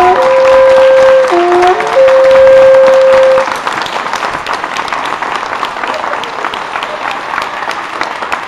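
A loud, steady pitched musical tone held in long notes with a few brief pitch changes, ending about three and a half seconds in. Audience applause follows and continues.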